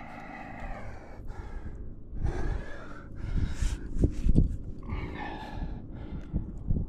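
A climber breathing hard and letting out strained, voiced exhales and gasps, one every second or two, while straining on a friction slab. There are a few dull knocks and scuffs near the middle.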